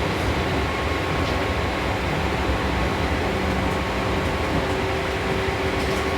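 Seibu New 2000 series electric train running at speed, heard from inside the passenger car: a steady rumble of wheels on rail with a few steady motor tones over it.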